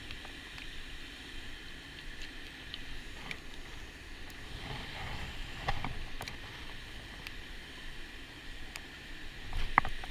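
Outdoor lakeside ambience: a steady hiss over a low rumble, with a few small clicks and one sharp, loud click near the end.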